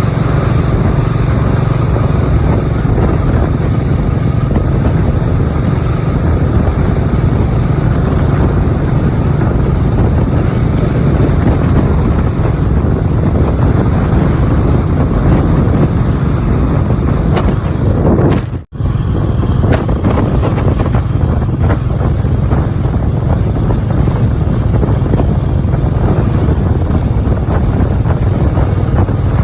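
Motorcycle running steadily at speed, its engine drone mixed with wind rushing over the microphone; the sound drops out for an instant about two-thirds of the way through, then carries on the same.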